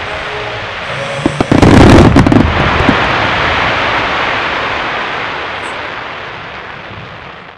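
Fireworks shells bursting in a quick cluster of loud bangs about a second and a half in, followed by a long fading wash of noise as the display dies away.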